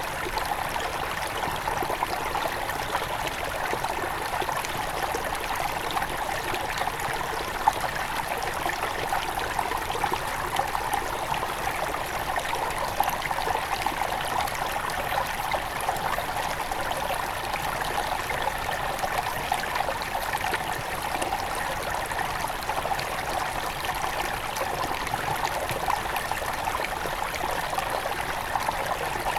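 A small forest river near its headwater, flowing steadily: a continuous, even rush of running water.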